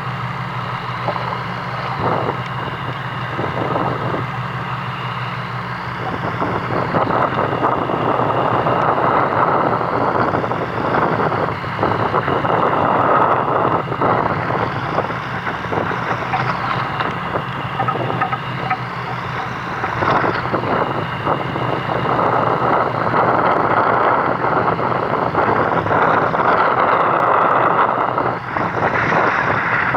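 Fishing boat's engine running steadily with wind buffeting the microphone; the wind and water noise grows louder about six seconds in. A faint high whine rises and falls every few seconds.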